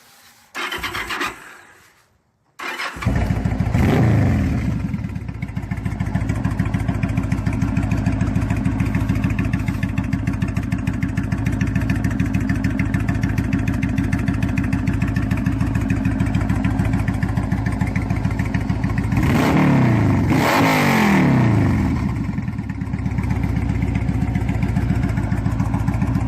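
2005 Yamaha V-Star 1100's air-cooled V-twin, with Cobra aftermarket exhaust, starting up about three seconds in and settling into a steady idle. The throttle is blipped once, about twenty seconds in, with the pitch rising and falling back to idle.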